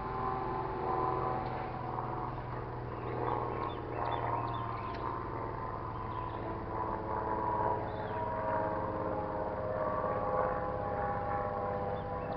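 Outdoor ambience: a steady low hum with a distant tone that slowly wavers in pitch, and a few short, high bird chirps.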